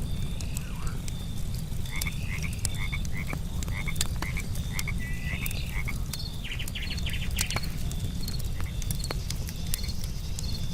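Wood fire crackling with sharp pops over a low rumble, while frogs call in short repeated croaks, with a quick pulsed run near the middle. Insects chirp faintly and steadily behind them.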